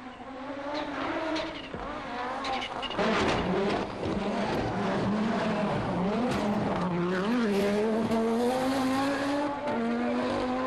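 Rally car engine revving hard at speed, its pitch climbing and dropping again and again as it shifts gears, getting louder about three seconds in.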